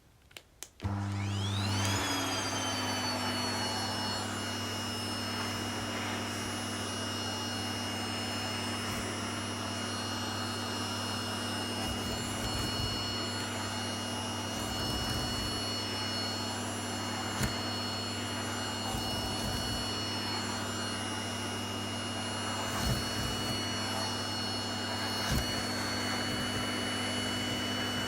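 Vacuum cleaner switched on after a couple of clicks about a second in. Its motor spins up with a rising whine, then runs steadily with a high whine and low hum, with a few small knocks.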